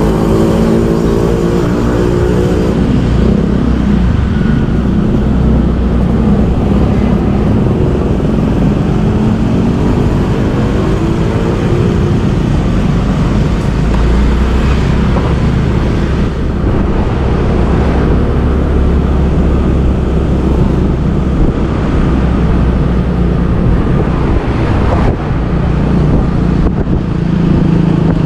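Motorbike engine running while riding through traffic, its pitch falling over the first couple of seconds and rising again around ten seconds in, over a steady low road and traffic rumble.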